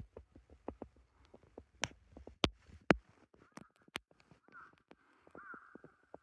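A run of sharp knocks and clicks, the loudest few in the middle, then a bird calling over and over in harsh notes during the last second or two.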